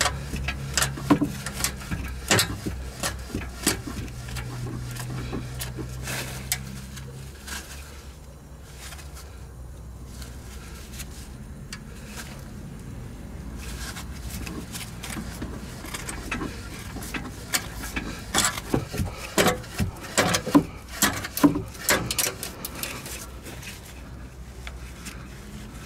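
Exhaust pipe cutter being worked on a steel exhaust tube in short back-and-forth swings, because it cannot turn more than a quarter turn around the tube: irregular metal clicks and knocks, with a low hum that stops about seven seconds in.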